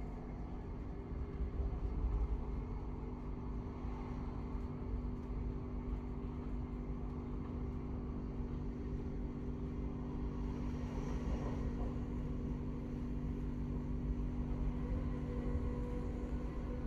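Passenger train running: a steady low rumble with a steady hum over it.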